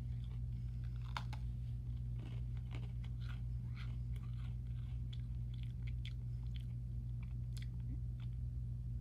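Chewing a Golden Oreo sandwich cookie with the mouth close to the microphone: irregular small crunches and mouth clicks. A steady low hum runs underneath.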